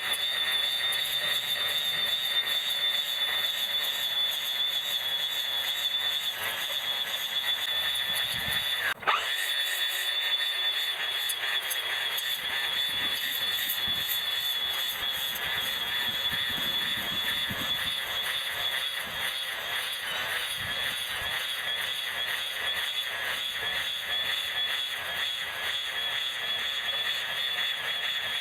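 Electric grass trimmer running steadily, its motor giving a continuous high-pitched whine. There is a brief dropout with a click about nine seconds in.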